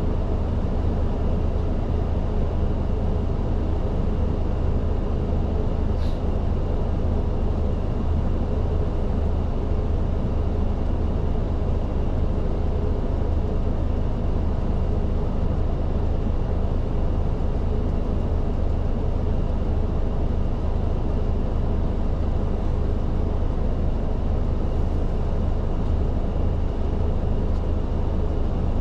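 Isuzu Erga city bus running, heard from inside the cabin near the front: a steady, low engine drone with a constant hum of the cabin. A brief click sounds about six seconds in.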